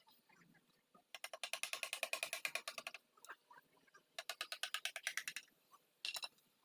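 Socket ratchet clicking rapidly, about a dozen clicks a second, in two runs of a second or two each, then a brief third burst near the end, as a bolt is run in on the engine.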